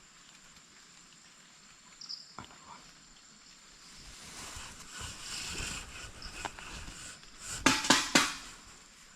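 About four sharp knocks in quick succession near the end, heard as someone banging on a pot; before them a single light click and faint rustling.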